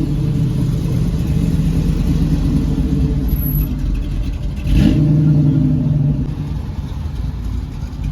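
A car engine running steadily; just under five seconds in it revs louder for about a second, then settles back.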